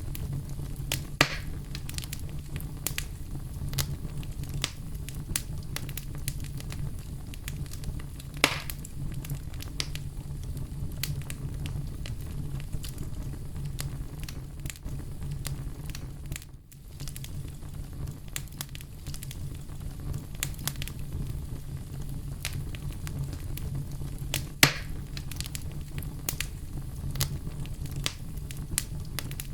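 Bonfire burning: a steady low rumble under frequent small crackles, with three louder pops spread through. The sound briefly drops out a little past the middle.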